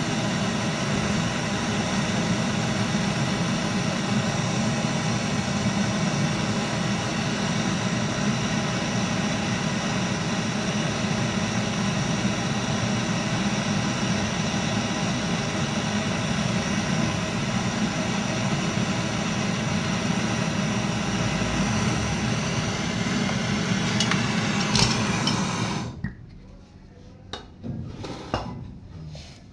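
A motor-driven machine running steadily with a hum and a whine, switched off suddenly near the end, followed by a few light metallic clinks.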